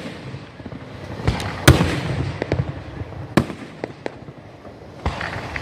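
Aerial fireworks shells bursting overhead: several sharp bangs a second or two apart, the loudest about a second and a half in, with smaller crackling reports between them and echo trailing after each.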